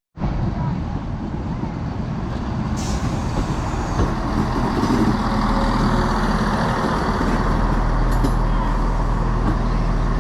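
Diesel passenger train's engine running with a steady low drone that grows louder, with a short hiss of air about three seconds in and a fainter one near the end.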